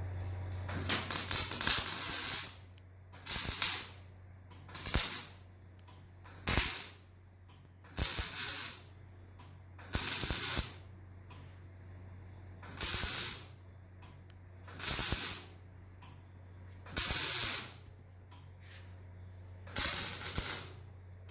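Arc welder laying short stitch welds on the thin, roughly 10-gauge sheet steel of a Ford 601 Workmaster tractor seat, filling cracks and worn holes: about ten crackling, hissing bursts, each under a second or so with the first one longer, about two seconds apart. A steady low hum runs underneath.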